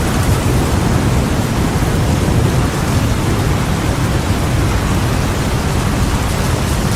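Heavy rain falling steadily over a deep, continuous low rumble, a thunderstorm ambience with no single thunderclap.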